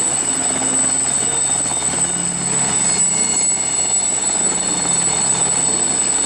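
Helicopter sound running steadily: an even rushing noise with a high thin whine on top, with no change in pitch or level.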